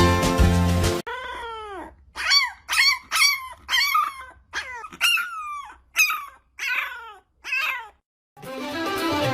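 A dog giving a string of high yips and howls, about a dozen calls at roughly two a second, each one falling in pitch.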